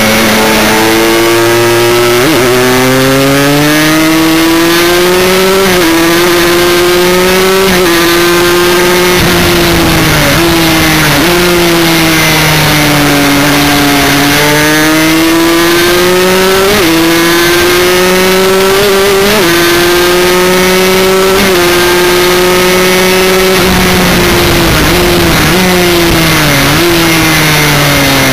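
Aprilia Extrema 125 two-stroke single-cylinder engine, very loud and close, revving hard around a race lap. Its pitch climbs and falls, broken by several abrupt jumps at gear changes.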